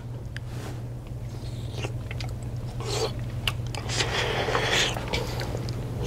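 Someone chewing and tasting spicy chili, with the clicks and scrapes of a wooden spoon stirring in a steel stockpot, over a steady low hum.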